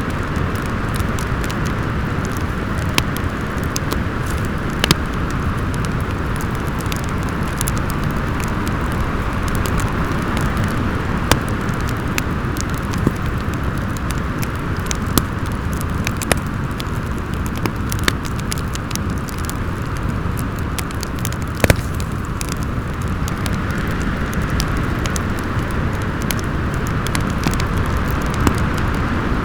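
Storm wind howling steadily over a crackling wood fire, with sharp pops every second or two. The loudest pop comes about three quarters of the way through.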